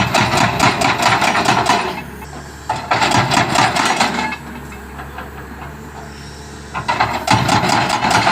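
Excavator-mounted hydraulic breaker hammer pounding in three bursts of rapid blows, each lasting one and a half to two seconds, with the excavator's engine running steadily in the pauses between.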